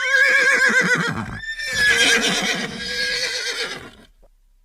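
An animal call with a quick, trembling warble in its pitch, heard twice. The second call is longer and fades away near the end.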